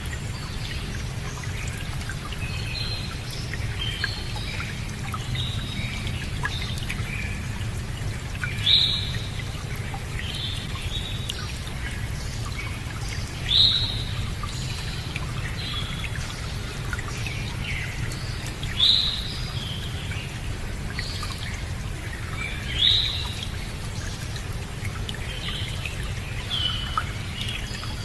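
Several songbirds calling and chirping, with one bird repeating a loud downward-sweeping call about every four to five seconds, over a steady low rushing noise.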